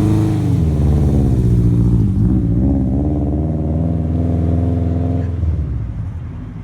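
Big-turbo, rear-wheel-drive-converted Subaru's engine revving hard under acceleration. Its pitch dips briefly about two seconds in, climbs again and holds high, then the sound falls away near the end.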